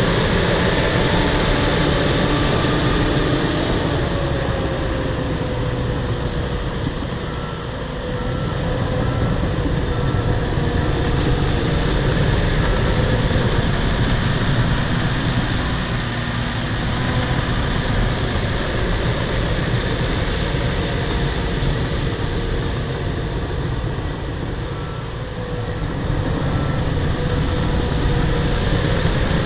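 Bulldozer's diesel engine running steadily under load while it pushes topsoil, easing off briefly twice, about a third of the way in and again near the end.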